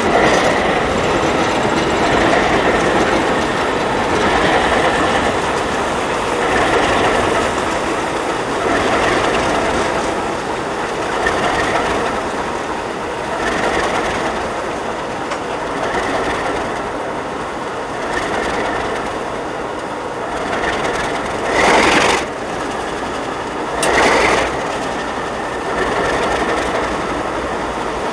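Freight train rolling past on jointed track, its wheels clicking over the rail joints in swells about every two seconds, with two louder swells near the end.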